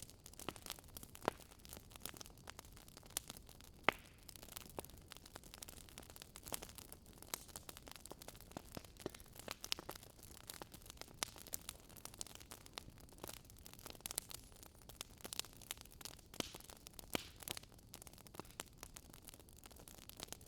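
Wood fire crackling: irregular sharp snaps and pops over a faint steady hiss of burning, with one louder pop about four seconds in.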